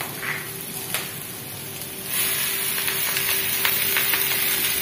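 Sliced vegetables sizzling in hot oil in a pan over a gas flame. About two seconds in, the sizzle jumps up loud and stays loud as boiled noodles are tipped into the hot pan.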